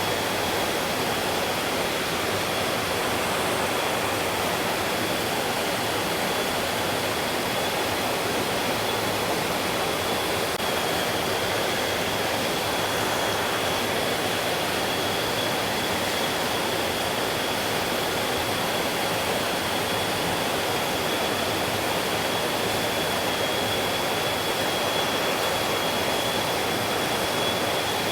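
Mountain stream flowing, a steady rushing of water, with a thin, steady high tone running through it.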